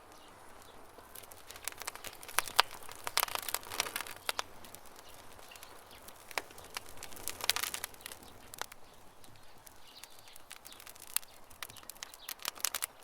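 Campfire crackling and popping, with bursts of sharp snaps in a few busy clusters over a low hiss, and faint bird chirping in the background.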